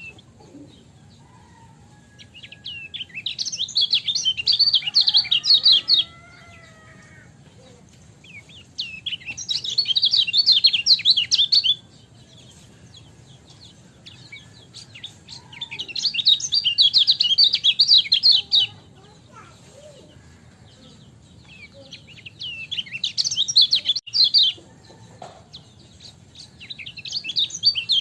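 Kecial kuning (a white-eye) singing in bouts of rapid, high twittering notes, each bout about three seconds long, five times, about six seconds apart. Fainter, lower bird calls sound between the bouts.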